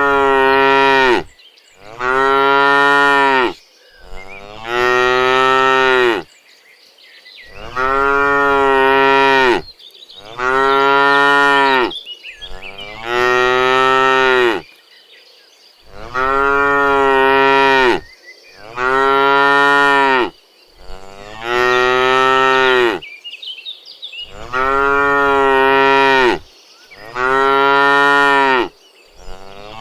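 Cattle mooing again and again: long, loud calls of one and a half to two seconds each, coming every two to three seconds.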